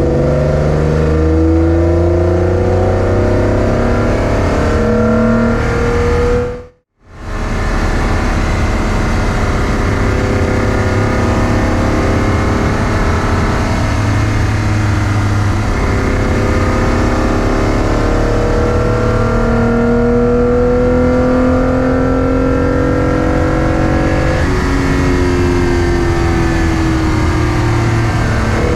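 Toyota MR2 Spyder's V6 engine pulling hard through the gears, its pitch climbing steadily and dropping back at each upshift. The sound cuts out completely for a moment about seven seconds in.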